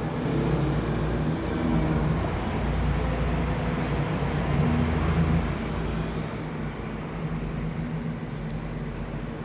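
Steady low rumble of road traffic or a running vehicle, easing off a little about six seconds in.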